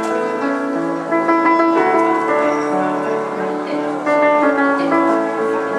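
Piano being played: a melody over held chords, the notes changing every half second or so.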